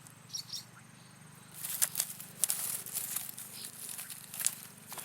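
Footsteps crunching and crackling through dry leaves and brush, starting about a second and a half in as an irregular run of crackles, with faint bird chirps before them.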